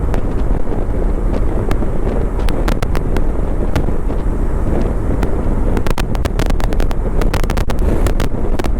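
Wind buffeting the action camera's microphone of a motorcycle riding at highway speed, a steady heavy rush, with scattered sharp ticks that come faster in the last few seconds.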